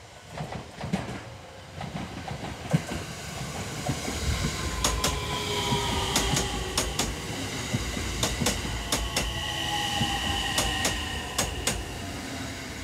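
Electric commuter train passing close by on a curve. Its wheels click over the rail joints in quick pairs over a low rumble that swells from about four seconds in, with a faint whine that slowly falls in pitch.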